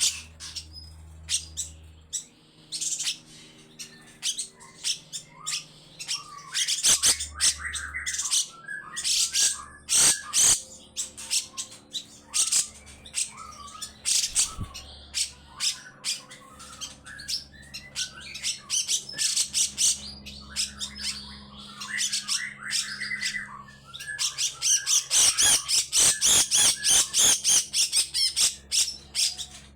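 Grey-cheeked bulbul (cucak jenggot) giving long runs of harsh, rasping, rapid chattering calls. The calls come in bursts with short gaps and grow densest near the end.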